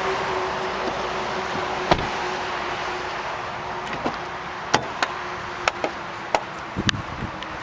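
A run of sharp clicks and knocks from the car's fittings being worked by hand, about seven of them spaced irregularly and mostly in the second half, over a steady hum.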